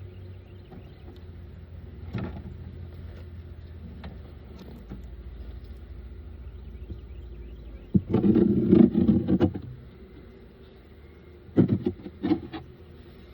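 Scraping and knocking of wooden beehive parts being handled during an inspection: a loud spell of clatter and scraping about eight seconds in and a few shorter knocks near the end, over a low steady hum.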